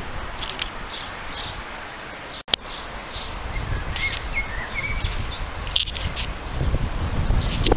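Small songbirds chirping in short, scattered calls over a low wind rumble on the microphone that grows louder in the second half. A sharp click about two and a half seconds in.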